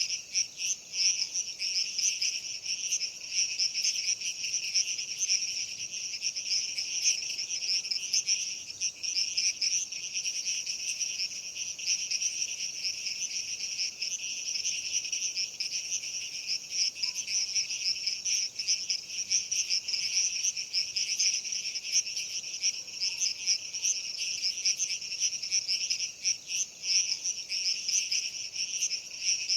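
Dense, steady chorus of many insects chirping, high-pitched and shimmering without a break.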